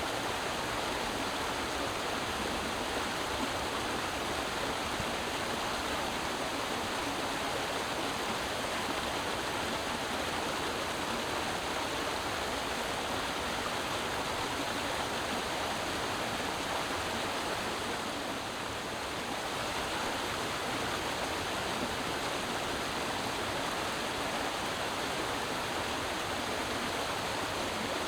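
Creek water flowing, a steady rushing that eases slightly for a moment about two-thirds of the way through.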